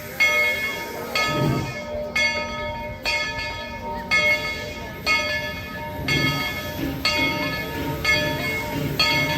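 Steam locomotive No. 190's bell ringing steadily, about one stroke a second.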